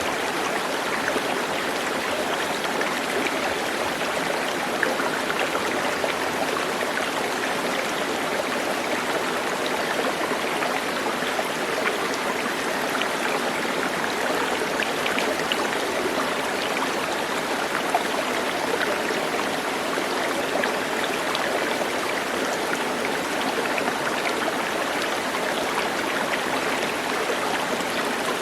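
Steady rush of running water, like a stream flowing, with small scattered splashes.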